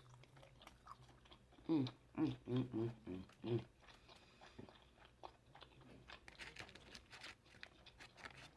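Close-up chewing and mouth smacking while eating seafood, with a few short hummed 'mmm' sounds about two to three and a half seconds in.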